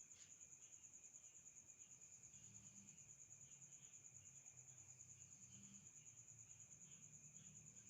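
Faint, steady high-pitched cricket trill, pulsing rapidly, with softer chirps repeating beneath it and a low hum in the background.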